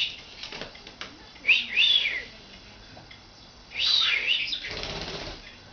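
Pet budgerigar whistling and chirping: three short clusters of quick rising-and-falling whistled notes, followed near the end by a brief rustling burst.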